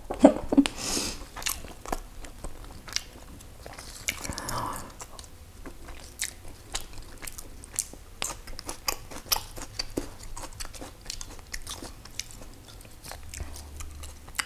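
Close-miked chewing and crunching of a mouthful of food with fresh raw herb leaves, full of many short sharp clicks.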